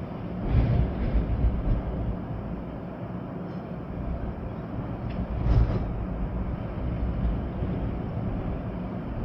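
Storm wind gusting with rain, a steady low rumble with louder gusts about half a second in and again around five and a half seconds in.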